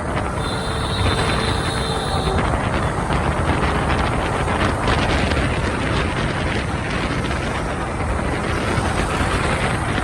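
Riding a motorbike through city traffic: a steady rush of engine, tyre and wind noise, with a high steady tone lasting about two seconds near the start.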